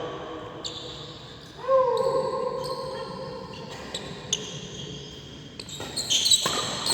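Badminton rally on an indoor court: sharp racket strikes on the shuttlecock, a second or two apart, with a longer shoe squeak on the court floor about two seconds in and a quick flurry of hits near the end.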